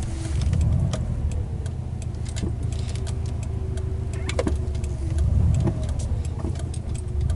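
Car engine running with a steady low rumble heard from inside the cabin, with a few light clicks.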